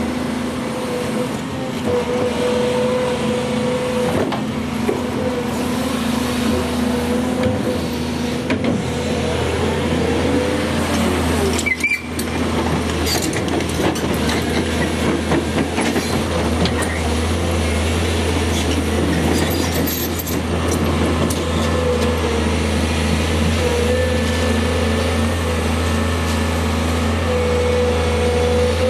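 Volvo EC210 tracked excavator's diesel engine running steadily under working load, with a hydraulic whine that comes and goes as the machine works.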